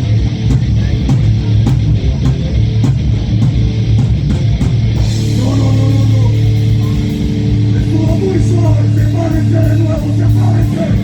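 A heavy metal band playing live: distorted guitars and bass over drums. In the first half the drums keep a steady, even beat. About halfway in a crash brings in held chords, with a lead guitar melody over them.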